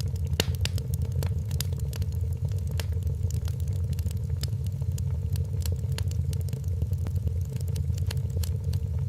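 Wood fire crackling: many small sharp pops and snaps, several a second, over a steady low rumble of the burning fire.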